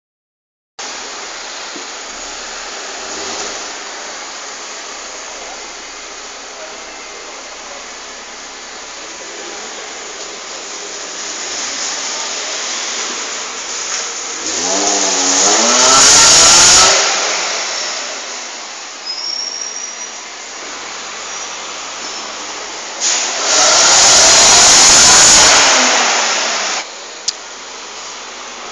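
VW Golf Mk4's VR6 narrow-angle six-cylinder engine heard through its exhaust, idling and then revved twice. The first rev climbs about halfway through and drops straight back; the second, about two-thirds of the way in, is held high for a few seconds before falling back to idle.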